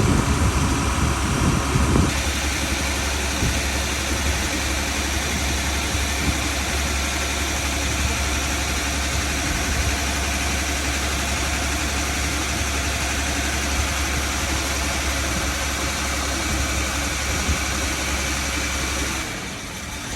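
Boat engine running steadily, dropping in level shortly before the end.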